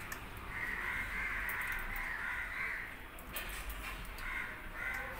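A bird giving a series of harsh, repeated cawing calls, the longest stretch about a second and a half in and shorter calls near the end.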